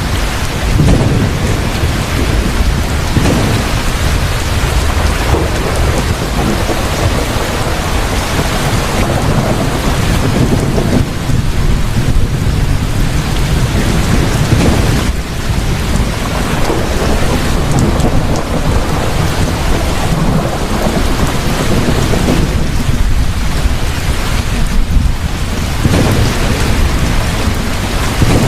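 Heavy rain falling steadily in a thunderstorm, with low thunder rumbling in repeated swells throughout.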